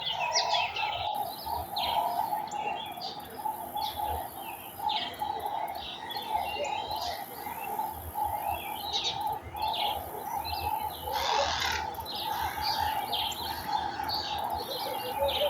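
Many garden birds chirping and twittering in short overlapping calls, over a steady lower wavering drone. A high hiss sets in about a second in, and a brief louder rushing burst comes about eleven seconds in.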